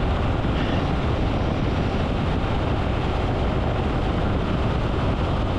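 A moving motorcycle heard from a rider-mounted camera: a steady rush of wind noise over engine and road noise, with no changes in pace.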